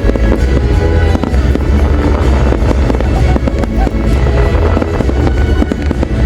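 Fireworks exploding in rapid, continuous succession, many sharp bangs and crackles over a steady low rumble, with music playing along.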